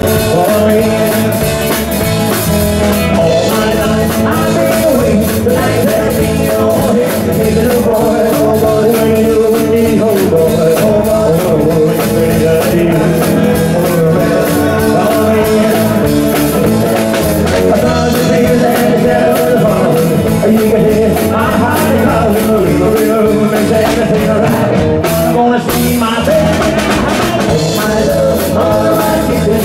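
A rock and roll band playing a song, with singing over drums and guitar.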